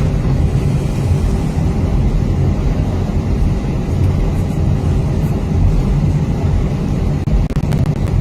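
Airliner cabin noise inside an Airbus A320-232 taxiing: a steady low rumble from its IAE V2500 engines at idle, with a few faint clicks near the end.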